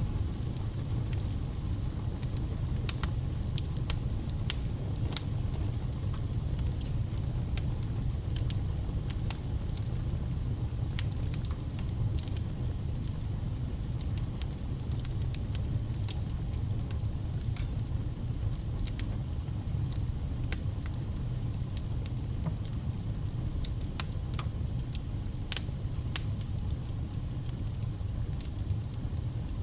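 Wood fire burning steadily with a low rumble of flame and irregular sharp crackles and pops from the burning logs.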